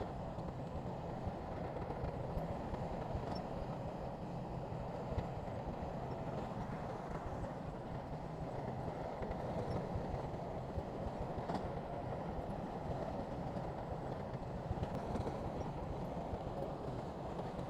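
Heavy diesel earthmoving machinery running steadily at work, with a few faint knocks.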